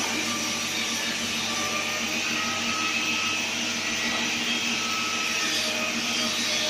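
Steady machine noise: a continuous hiss and hum from running machinery, with faint short whining tones coming and going.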